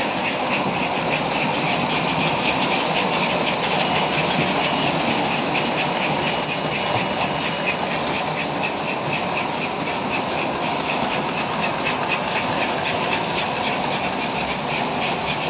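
Vintage American Flyer S-gauge toy trains running on their track: a steady electric motor and wheel noise with a fast, faint clicking, unbroken throughout.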